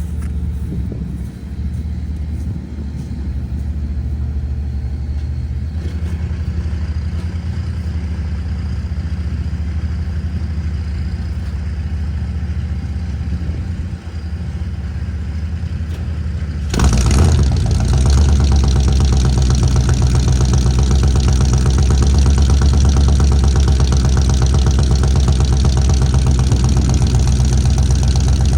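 Old vehicle engine running in sub-zero cold, a steady idle. About 17 seconds in it turns suddenly louder and fuller, then runs on steadily.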